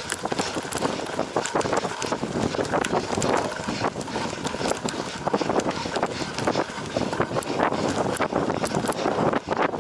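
Cyclocross bike ridden hard over rough off-road ground: a dense, irregular rattle and clatter of the bike and tyres over bumps, with wind noise on the microphone.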